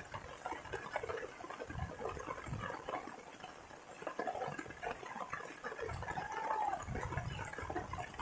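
Rain water dripping and splashing in many small irregular drops, with two short calls from an animal about halfway and near the end, each rising and then falling in pitch.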